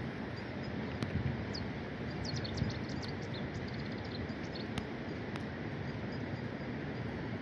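Small birds chirping faintly, with a cluster of quick high, falling chirps a couple of seconds in, over a steady rushing background noise.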